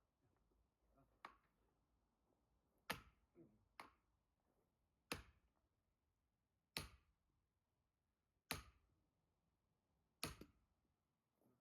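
Axe blows splitting firewood: five sharp strikes a little under two seconds apart, with two lighter knocks among the first ones.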